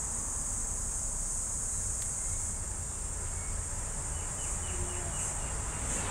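Steady high-pitched insect chorus, cricket-like, running continuously over a low background hum.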